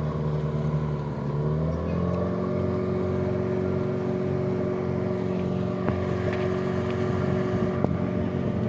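Motorboat engine running steadily, its pitch rising between one and two seconds in as it speeds up, then holding at the higher speed.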